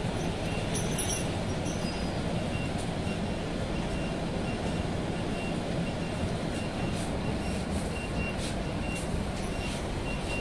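Steady low rumble of a bus interior while under way.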